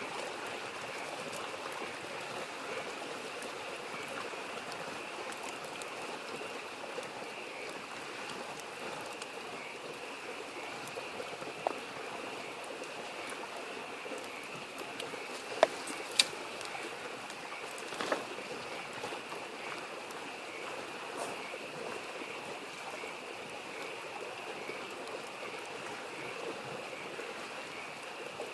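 Steady babbling of a mountain stream with frogs calling in a continuous chorus. A campfire gives a few sharp pops in the middle, two of them close together.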